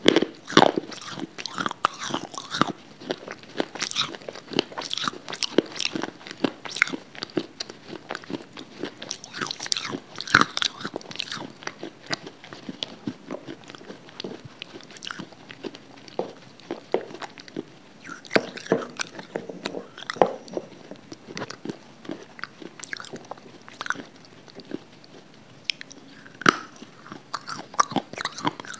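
Close-miked biting, crunching and chewing of hard, brittle grey slabs, a dense run of sharp crackles and crunches all through.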